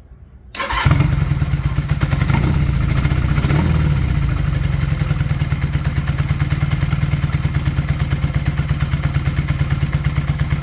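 1982 Kawasaki KZ440's air-cooled parallel-twin engine firing up about half a second in, on its first start after decades of sitting. It is blipped twice, then settles into a steady, evenly pulsing idle.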